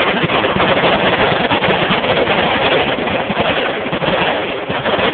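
Many machine guns firing at once: a loud, dense, continuous roar of overlapping automatic fire, easing slightly near the end.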